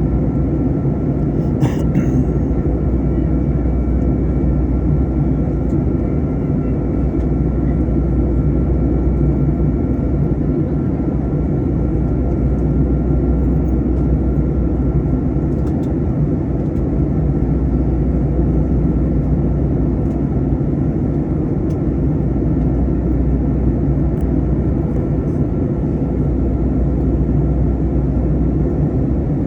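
Steady cabin noise of an Airbus A321 in descent: a deep, even rumble of engines and airflow with a faint steady whine above it. A single sharp click sounds about two seconds in.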